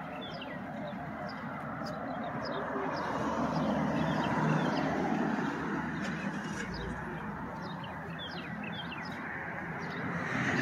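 Small birds chirping repeatedly, many short quick chirps, over a steady background of outdoor noise that swells for a few seconds in the middle.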